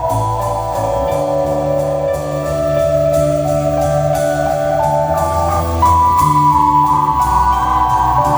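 Live band playing: held keyboard chords that change every second or so over a bass line, with cymbal strikes keeping a steady beat a little over twice a second.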